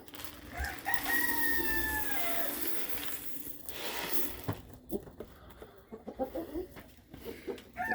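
Rooster crowing once: a long call of about two seconds that starts about a second in and drops slightly in pitch at its end. It is followed by short clucks and a scatter of small clicks from the flock.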